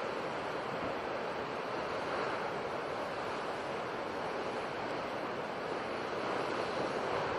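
Sea waves breaking and washing in a continuous rushing hiss, swelling slightly about two seconds in and again near the end.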